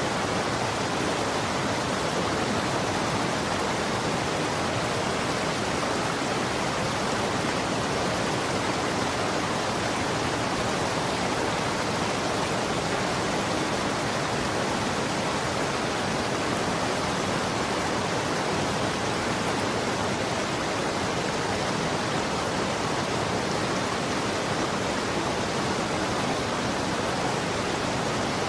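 Running water flowing in a steady, even rush with no change in level.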